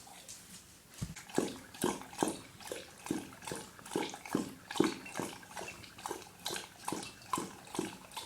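Dog lapping water from a bowl, a steady rhythm of about two wet laps a second that gets louder about a second in.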